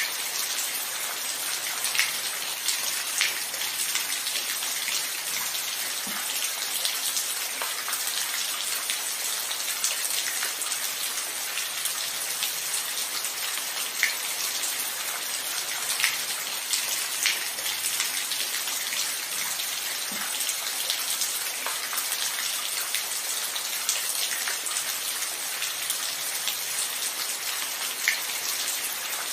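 Steady rain falling, a continuous even hiss with scattered close drops ticking sharply on a surface.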